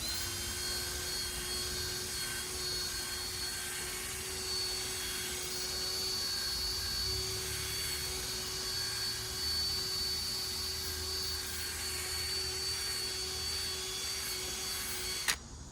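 Power drill spinning a 500-grit sanding disc against a plastic headlight lens: a steady whine over a rough grinding hiss as the oxidised, hazed surface is sanded off. The drill stops abruptly near the end.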